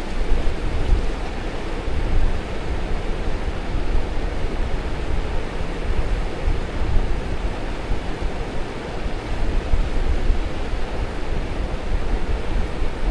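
Strong wind buffeting the microphone: a gusty low rumble over a steady rushing hiss.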